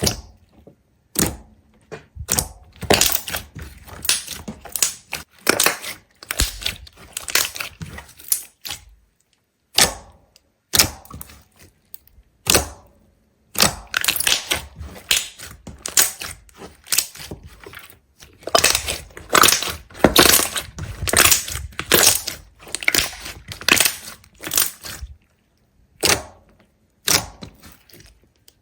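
Rapid, irregular crackling and crunching in clusters, with short pauses between.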